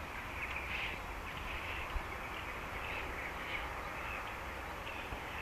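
Birds calling in short, repeated high calls over a low, steady rumble.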